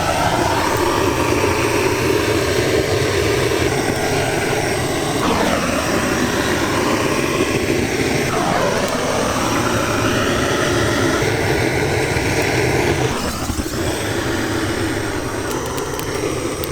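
A machine running loudly and steadily, with a rushing, engine-like noise that dips in pitch twice partway through and eases slightly near the end.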